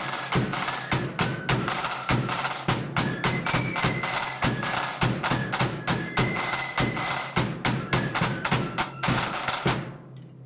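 Marching flute band playing a march: a flute melody over loud, busy snare and bass drums. The music stops about ten seconds in.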